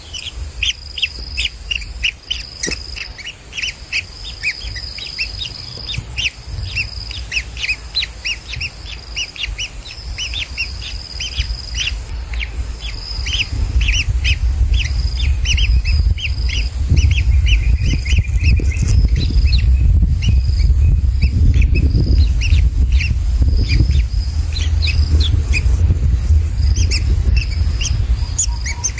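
Birds chirping in quick short notes, with a thin steady high note on and off through the first half. From about halfway, a loud low rumble rises under the chirping and stays.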